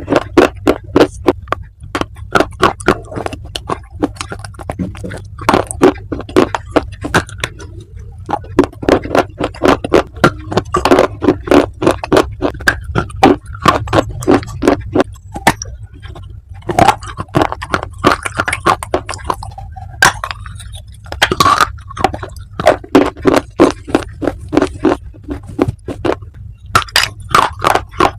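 Close-miked crunching and chewing of hard clay pieces: rapid sharp crunches, several a second, in runs broken by short pauses.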